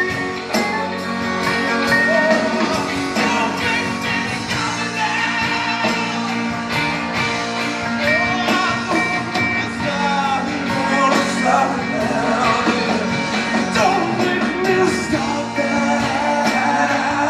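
Live soul band playing a slow ballad, the band steady with a melodic lead line that bends in pitch over it.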